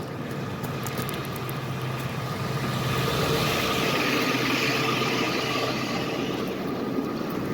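A motor running steadily with an even hum, and a rushing noise that swells in the middle and eases off again.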